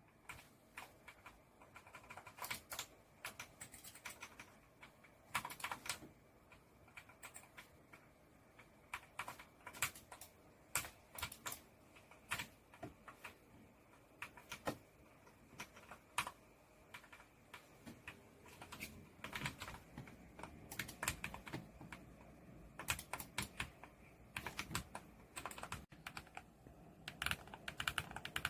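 Keys of the ASUS ROG Falchion Ace HFX, a compact magnetic-switch gaming keyboard, being typed on. The clicks come in irregular bursts of quick keystrokes with short pauses between them.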